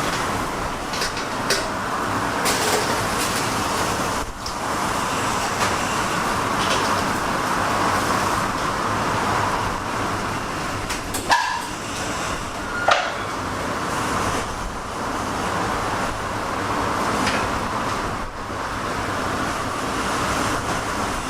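Steady mechanical running noise of kitchen machinery, with a few faint clicks and two short, pitched pings about halfway through.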